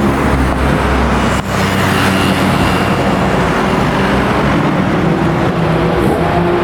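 A car engine running steadily, with an abrupt change in the sound about a second and a half in.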